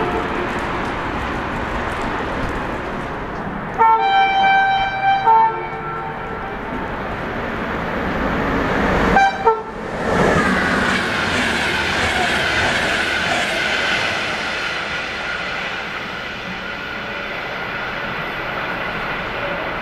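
Locomotive horn sounding in several short blasts about four seconds in and once more briefly near nine seconds, over the steady rolling of a container freight train. Then a container freight train rolls past with wagon clatter.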